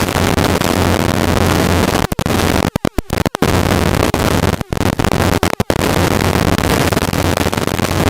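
Helicopter cockpit noise: steady engine and rotor drone with a low hum and loud wind-like hiss. The sound cuts out briefly several times in the middle.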